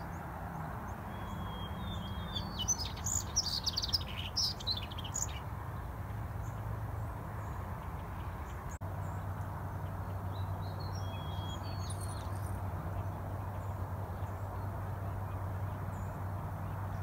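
Birds chirping in two spells of short, high calls, about two to five seconds in and again around ten to twelve seconds in, over a steady low hum.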